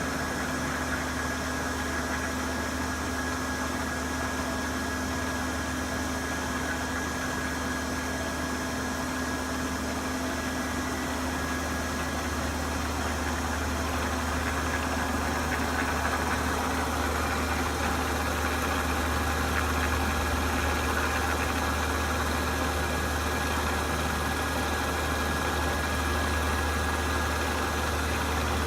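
Metal-machining machine tool running steadily, with a low hum and a thin high whine; the sound grows a little louder and noisier from about halfway through.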